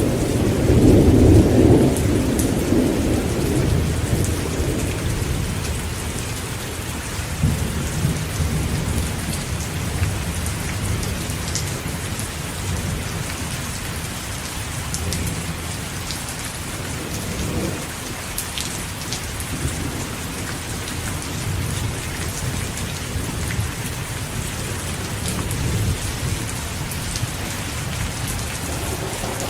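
Heavy rain falling steadily, with thunder rumbling low underneath, loudest in the first few seconds and then rolling on more faintly.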